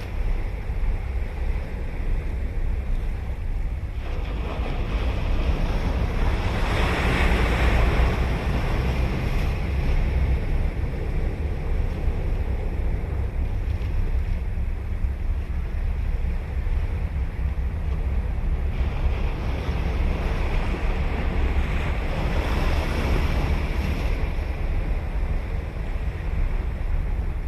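Ocean surf breaking and washing up the beach: two waves swell and fade, the first about a quarter of the way in and the second past the middle, over a steady low rumble of wind on the microphone.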